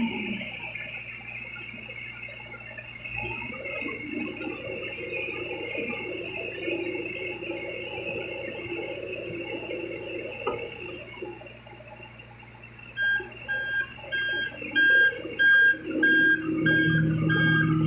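A truck's reversing alarm starts beeping about two-thirds of the way in, a single high beep repeating about twice a second, over the uneven noise of running machinery.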